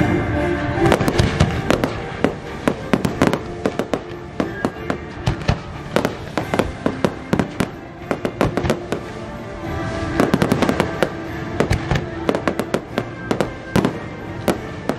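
Aerial fireworks shells bursting in a rapid, uneven string of sharp bangs, several a second, over the show's orchestral score.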